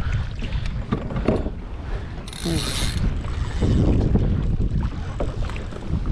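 Fishing reel ratcheting briefly, a loud buzz lasting under a second about two seconds in, as a fish takes line off it. Scattered clicks and a steady rumble of wind on the microphone and water against the kayak sound throughout.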